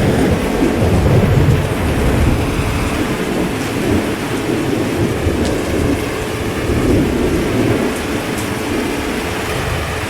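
Steady heavy rain with a long low rumble of thunder, strongest in the first couple of seconds and slowly dying away.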